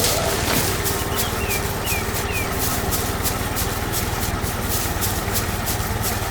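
Tractor engine running steadily with a fast, even pulse. A few short high chirps come about one to two and a half seconds in.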